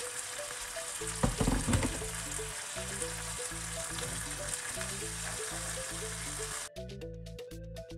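Diced vegetables sizzling in hot oil in a nonstick wok, with a few louder strokes of a wooden spatula stirring about a second in. The sizzle cuts off suddenly near the end, leaving background music with a repeating melody.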